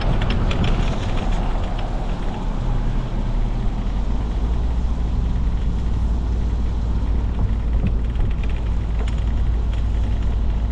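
Car driving, heard from inside the cabin: a steady low engine and road rumble that grows stronger and steadier about four seconds in.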